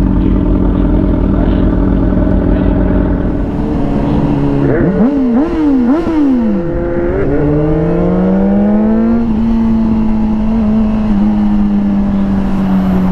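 Inline-four sport motorcycle engine running steadily, then revved up and down several times in quick succession about four and a half seconds in. It then climbs in pitch as the bike pulls away and settles into steady running, with a low rumble of wind underneath.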